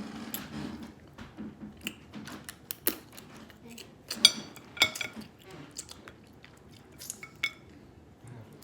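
Blue crab shells being cracked and picked apart while eating, with irregular sharp cracks and clicks, the loudest about four and five seconds in.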